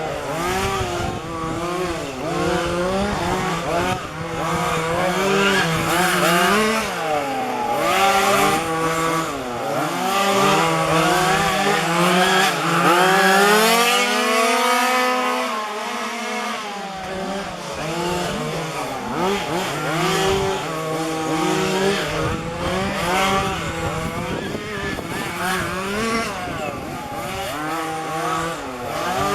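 Several 1:5 scale petrol RC cars' small two-stroke engines racing together, their pitches overlapping and rising and falling repeatedly as they accelerate and back off around the track. Near the middle one engine climbs high and drops again.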